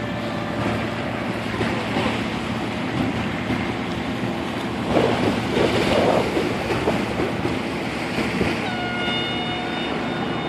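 A boat's engine runs steadily under wind noise on the microphone and the wash of water, with a louder stretch of splashing about halfway through. Near the end a steady pitched tone, like a horn, sounds for about two seconds.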